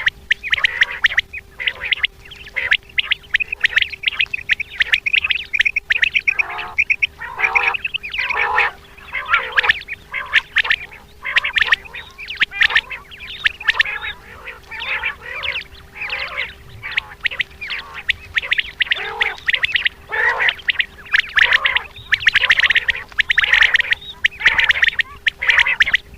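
Common quail calling over and over, short sharp calls in quick runs that overlap one another, with a faint steady hum beneath.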